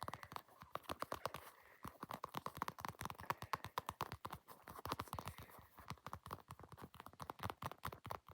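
Rapid, uneven tapping at several taps a second: an ASMR trigger sound, close to the microphone.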